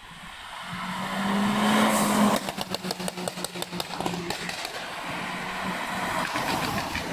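A car's engine rising as it accelerates, loudest about two seconds in, then easing off with a rapid run of sharp exhaust pops and crackles while the engine note carries on more quietly. A few more crackles come near the end.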